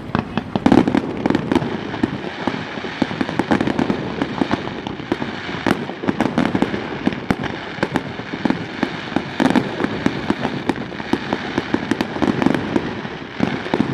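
Fireworks going off: a continuous crackle of many sharp pops and bangs in quick succession.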